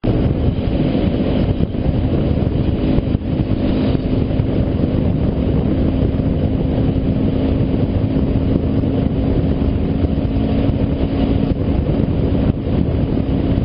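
Motorcycle cruising at a steady speed, its engine a steady hum under heavy wind rushing over the action camera's microphone. The engine hum drops away about twelve and a half seconds in.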